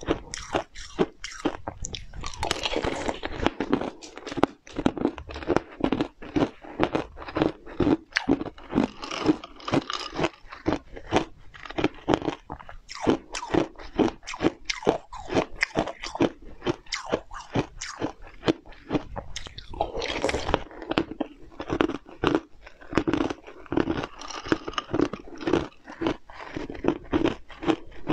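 Close-miked eating: rapid crunching and chewing, several sharp crunches a second.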